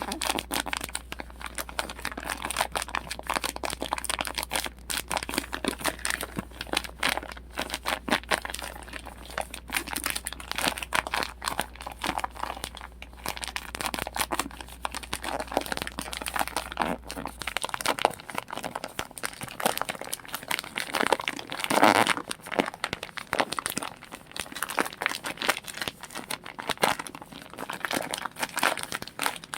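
Plastic crinkling and rustling, continuous and irregular, as bags are handled close to the microphone, with one louder rustle late on. A faint low hum underneath stops a little past halfway.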